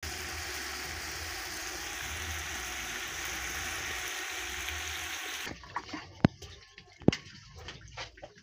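Meat and chopped tomatoes sizzling in a metal cooking pot, a steady hiss that cuts off suddenly about five and a half seconds in. It is followed by a few sharp knocks, two of them loud, and light clatter as a wooden spoon stirs the pot.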